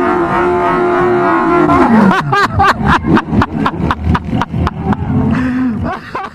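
Sport motorcycle's exhaust: a steady high engine note that drops away about two seconds in, followed by a train of sharp, evenly spaced bangs, about four a second, slowly getting quieter.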